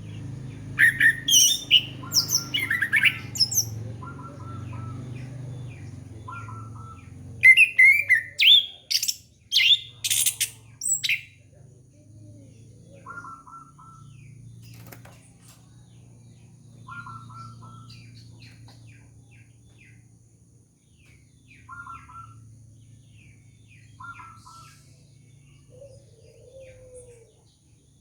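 Orange-headed thrush (anis kembang) song played as a lure recording: two bouts of loud, varied, fast-changing phrases in the first half, then short repeated chirps every few seconds over a steady low hum.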